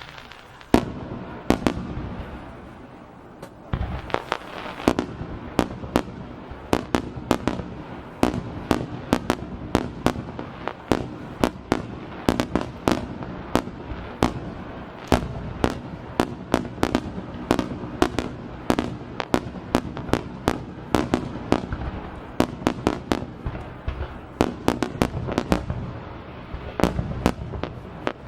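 Aerial fireworks bursting in a rapid barrage: dozens of sharp bangs in quick succession over a continuous low rumble, starting about a second in after a brief lull.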